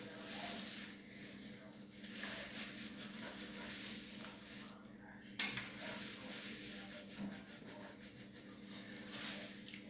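Close, crackling rustle of hands working hair cream through hair, with a brief lull and a sharp click about halfway through, over a steady low hum.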